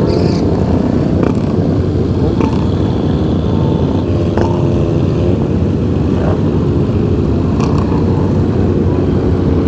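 A pack of motorcycles riding together, their engines running steadily at cruising speed.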